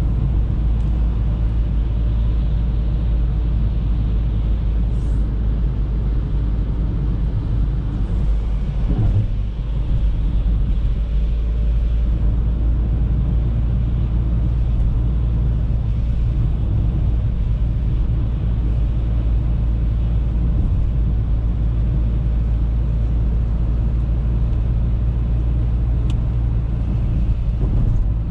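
Audi A3 driving: a steady low rumble of engine and tyres on the road, easing briefly about nine seconds in.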